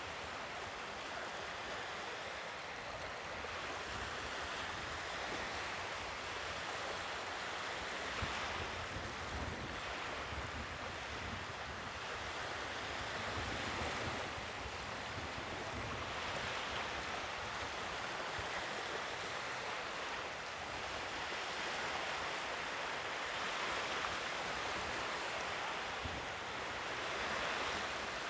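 Sea waves washing onto the shore, an even rushing noise that swells and eases every few seconds as each wave breaks.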